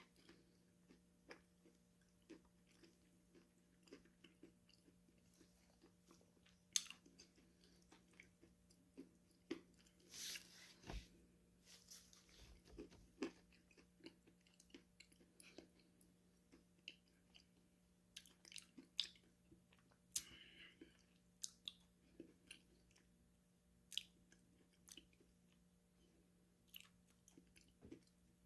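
Close-up chewing and biting of crunchy food: quiet mouth sounds broken by sharp, irregular crunches, the loudest about a quarter of the way in, with a longer run of crunching around the middle. A faint steady low hum runs underneath.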